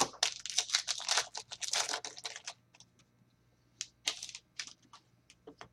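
Trading cards being handled and flicked through: a dense run of crisp clicks and rustles for about two and a half seconds, then scattered single clicks.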